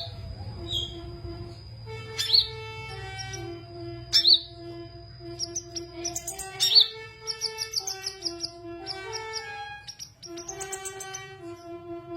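Small songbird, a sunbird (the "kolibri" of Indonesian bird keepers), giving sharp high chirps and quick trills. Behind it runs background music with a slow melody of held notes.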